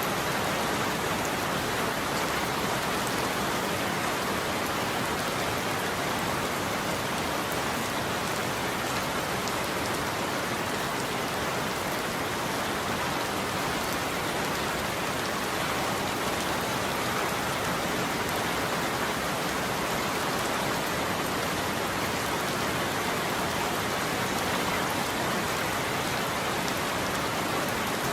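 Steady heavy rain falling and pattering on a surface, an even hiss that keeps the same level throughout.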